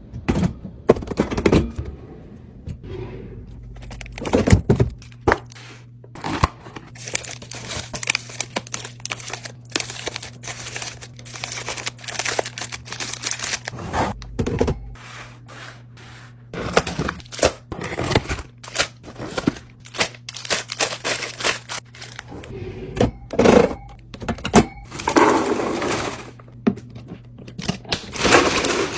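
Food containers and packets being handled and set down while stocking a fridge: a string of irregular clunks and knocks with rustling and crinkling of packaging. A steady low hum runs underneath.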